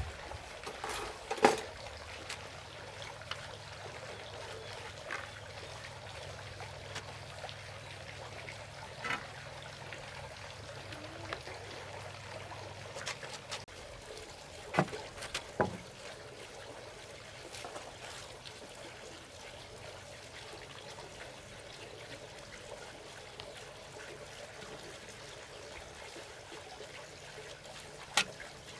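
Steady trickling of running water, with a few sharp knocks or taps: one about a second and a half in, two in quick succession about halfway, and one near the end.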